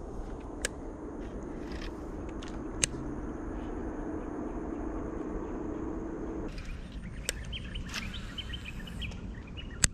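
A steady low hum and hiss with a few sharp clicks; about six and a half seconds in the hum stops and small birds chirp.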